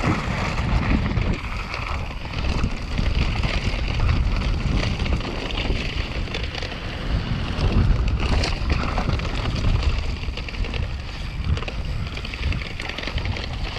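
Wind buffeting an action camera's microphone as a mountain bike descends at speed, with the rumble and rattle of the bike running over rough ground.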